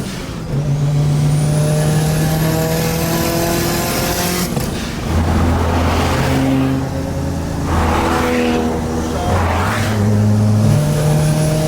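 Car engines running and revving under a hip hop backing track, with several swells of engine and exhaust noise in the second half.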